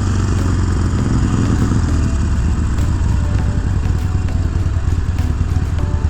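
Harley-Davidson Forty-Eight Special's air-cooled V-twin running steadily through a Vance & Hines Twin Slash exhaust with quiet baffles, a deep, pulsing motorcycle exhaust note.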